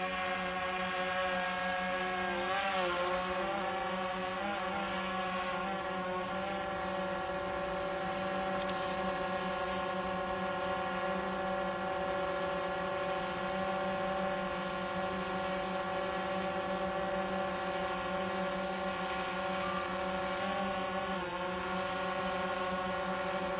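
Quadcopter drone's motors and propellers whining steadily, a stack of steady tones whose pitch wavers briefly a few times as the motors adjust.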